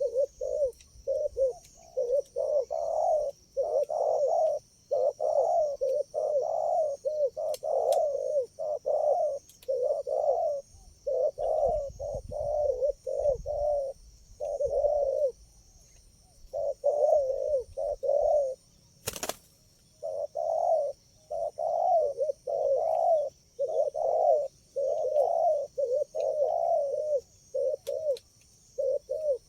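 Spotted doves cooing, short coo phrases following one another almost without a break, with a few short pauses along the way. A steady high insect drone runs underneath, and a single sharp click comes about two-thirds of the way through.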